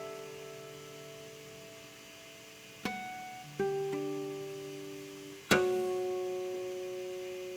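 Solo guitar playing slow, sparse plucked notes and chords that are left to ring and die away, with a louder chord struck about two-thirds of the way through.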